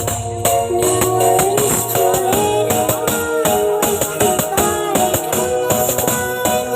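Music played loud through a horeg carnival sound system during a sound check: a melody over a steady jingling beat, the heavy bass thinning out about half a second in.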